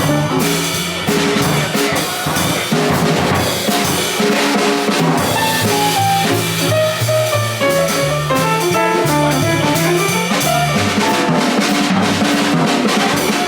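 Live jazz band playing, with the drum kit prominent (snare, rimshots and bass drum) over a moving bass line and pitched melody notes.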